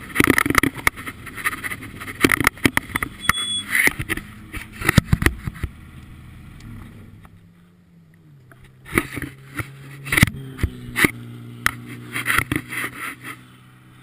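A car engine idling steadily through the second half, its pitch stepping up twice before settling. Before it come a run of sharp knocks and rustles.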